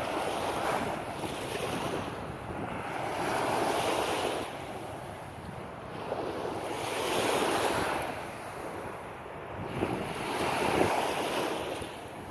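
Waves washing onto a sandy beach, each one swelling and fading about every three to four seconds, with wind buffeting the microphone.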